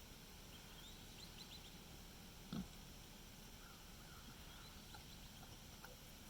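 A pig gives a single short grunt about two and a half seconds in, over a faint steady background hiss.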